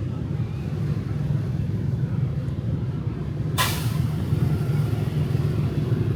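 Steady low rumble of street traffic, with motorbikes and cars passing. About halfway through comes a short, sharp hiss.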